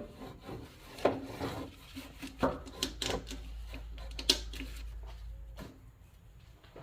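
Hand tools and metal parts being handled while bolts on a tractor's shift linkage are snugged up: scattered irregular clicks, knocks and scraping rubs that thin out near the end.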